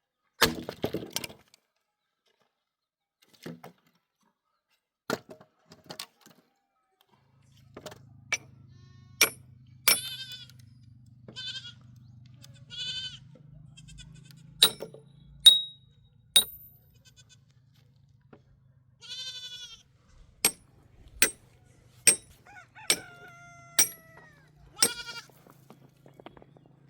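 Sheep and goats bleating in several separate calls, with a falling call near the end. Sharp clicks and knocks come in throughout, and a low steady hum sets in about a quarter of the way through.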